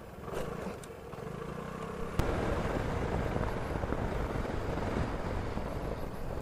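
Vespa scooter engine running under way, with wind noise at the camera. A sharp click about two seconds in, after which the engine and wind grow louder.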